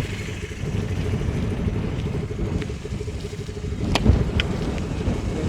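Motorcycle engine running steadily at low revs with a low rumble, with a few sharp clicks or knocks about four seconds in.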